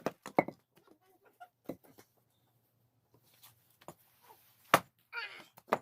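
Axe striking wood in a few separate sharp knocks while splitting firewood, the loudest a little before the end.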